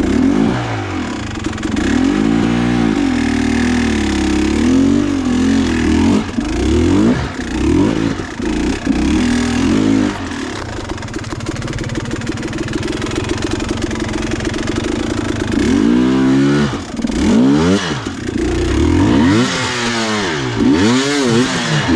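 Dirt bike engine revving up and down again and again, blipping the throttle, with a steadier run of several seconds near the middle before it rises and falls again.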